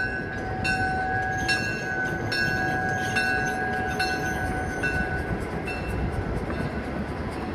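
Diesel locomotive's bell ringing about once a second over the low rumble of the running locomotive. The strokes fade and stop near the end.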